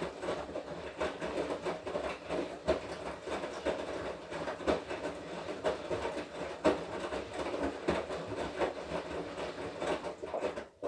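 Washing machine running a wash cycle: the drum turning with a steady rattle and many irregular knocks, cutting off suddenly near the end.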